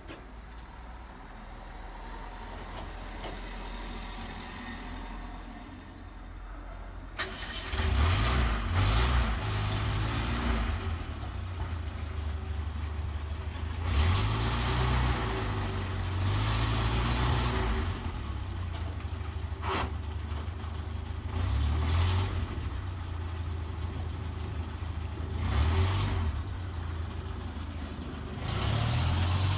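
Vehicle engine that runs faintly at first, then becomes much louder about seven seconds in and is revved up and down repeatedly as the vehicle is manoeuvred up a ramp.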